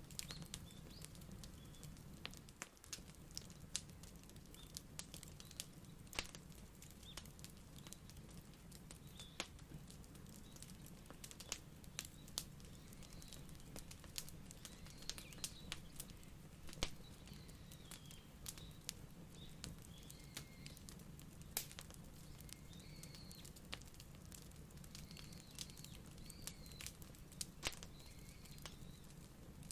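Wood fire crackling: irregular sharp pops and snaps over a steady low rumble. Faint high chirps come and go in the second half.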